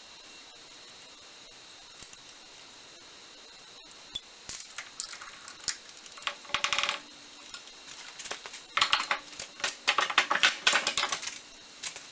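Metal parts of a lathe's quick-change gearbox clinking, knocking and scraping as the gearbox is worked loose and lifted off the lathe. A few faint clicks come at first; from about four seconds in the clinks grow frequent, and they are busiest over the last few seconds.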